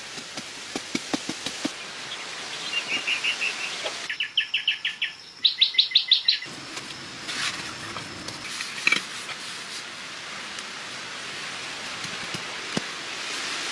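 A run of dull knocks from a wooden stick tamping soil, then a bird's rapid chirps in three short trills, the last the loudest. After that a steady hiss with a few isolated taps as stone blocks are set down.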